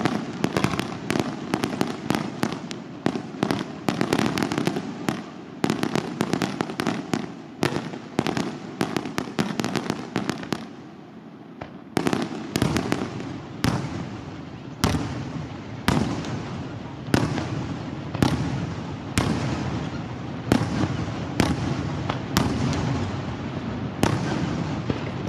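Fireworks display: a dense, rapid run of bangs and crackles for about ten seconds, a short lull, then single loud bangs about once a second, each trailing off in an echo.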